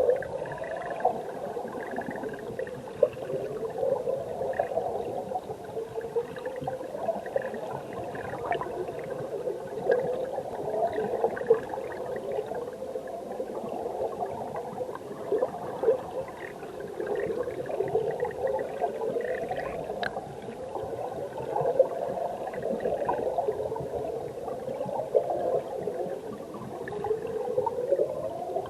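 Mountain stream water heard through an underwater camera: a continuous mid-pitched bubbling and gurgling churn that swells in slow rising waves every few seconds, with a few sharp clicks.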